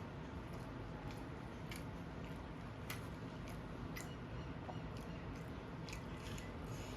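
A person chewing bhalla papdi chaat close to the microphone, with scattered short clicks of biting and chewing.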